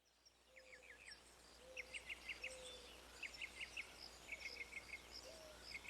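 Faint birds chirping in quick runs of three to five short chirps, repeated every second or so: background birdsong in a cartoon soundtrack.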